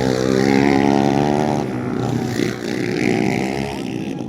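Underbone motorcycle engines racing in a motocross heat, revving hard, easing off briefly about a second and a half in, then revving up and down again.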